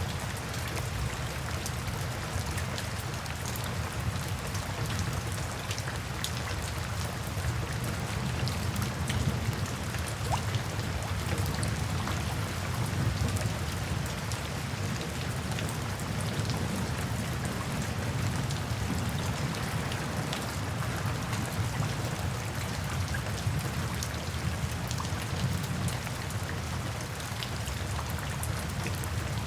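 Steady rain falling: an even hiss with a deeper rumble underneath and scattered sharp ticks of single drops.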